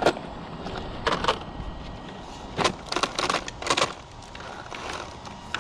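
Irregular crunches and sharp cracks in a few scattered clusters over a low background rumble.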